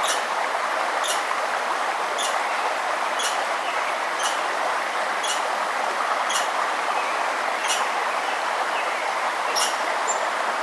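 A river running steadily, with a small bird giving a short, high chip about once a second.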